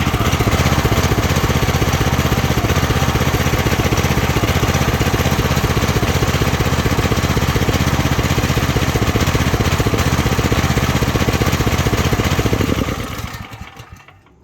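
Small gasoline engine of a Rippa Mule Trac mini excavator running steadily, then slowing and dying about 13 seconds in. It will not keep running, which the owner puts down to either low compression or a carburetor that can't be tuned.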